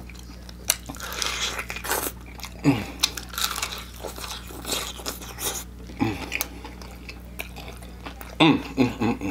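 Close-up biting and chewing of an extra-crispy fried chicken leg, with repeated sharp crunches of the fried coating, and a few short hums of the eater's voice.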